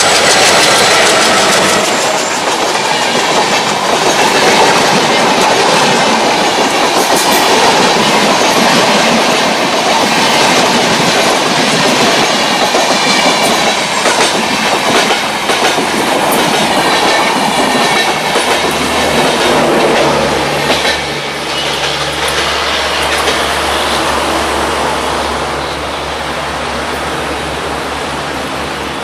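Diesel-hauled passenger train with LHB coaches passing close by: steady wheel rumble and clatter over rail joints. A low steady hum joins about two-thirds of the way through, and the sound fades toward the end as the train moves away.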